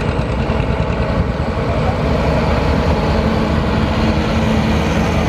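Tractor engine running steadily, a low continuous rumble close to the microphone.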